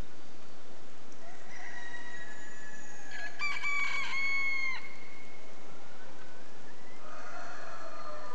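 A rooster crowing once, about three and a half seconds in: a stuttering start, a long held note, then a drop in pitch at the end. Other birds call faintly around it.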